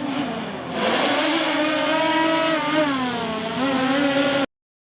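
DJI Mavic Air 2 drone's propellers buzzing close by, the pitch slowly wavering up and down as the motors change speed. A hiss joins about a second in, and the sound cuts off abruptly near the end.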